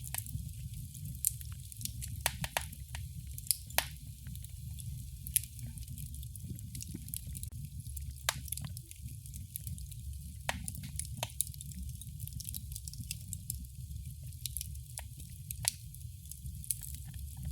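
Wood fire crackling in a fireplace: a steady low rumble and hiss of the burning fire, with irregular sharp pops and snaps, a few of them much louder than the rest.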